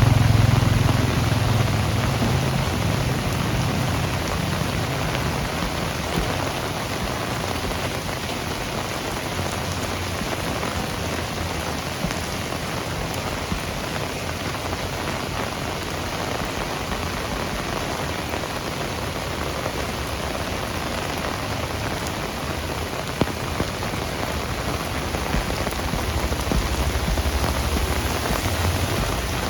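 Heavy rain falling steadily and pattering on surfaces, with a low rumble that fades away over the first few seconds and comes back more weakly near the end.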